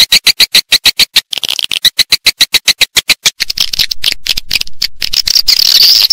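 Edible-nest swiftlet calls played as a lure for a swiftlet house: fast trains of dry, clicking chirps, about ten a second, then from about halfway a denser, continuous high twittering.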